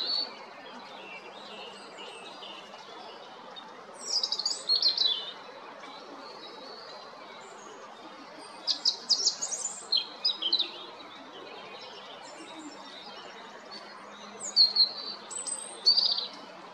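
European robin singing: three short phrases of high, quick, varied notes a few seconds apart, over a steady background noise.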